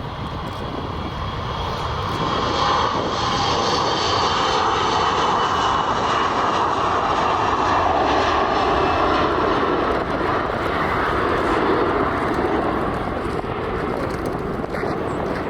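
Airliner's engines as the aircraft passes close by on the runway or overhead. The roar grows louder about two seconds in, holds, and eases off near the end, with a steady high whine above the rumble.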